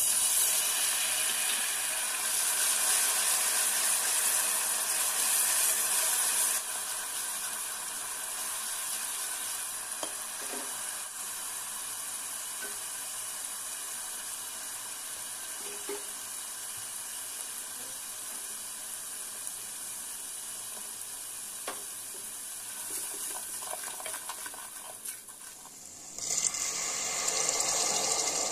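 Chopped onions sizzling in hot oil in a pressure cooker. A loud sizzle starts suddenly as ginger-garlic paste is poured in and eases to a steadier, quieter sizzle about six seconds in, with a few light ticks as spices go in. It flares up loudly again near the end as a little water is added to the hot oil.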